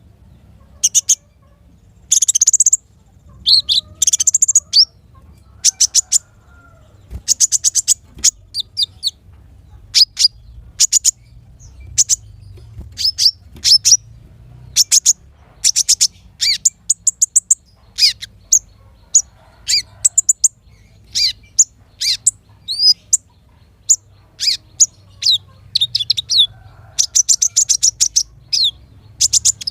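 Small songbirds chirping in short, rapid high-pitched trills and chirp series, a burst about every second, over a faint low hum.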